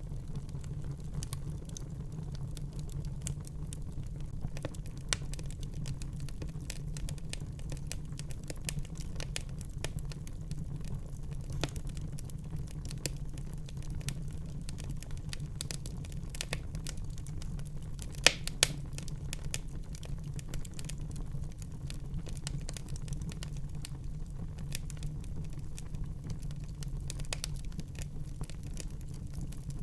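Wood fire burning in a fireplace: a steady low rumble of flame with irregular crackles and snaps throughout, the sharpest pair of pops about eighteen seconds in.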